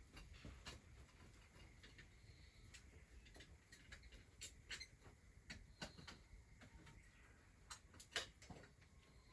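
Faint crackling of a wood fire: irregular small snaps and pops over a quiet background.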